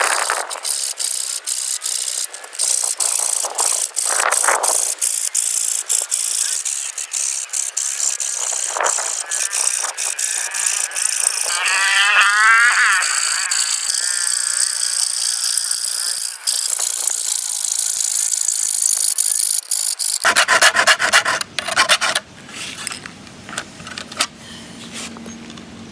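A metal file being stroked across the teeth of a saw blade, with repeated rasping strokes of metal on metal as the teeth are sharpened. It changes and grows quieter near the end.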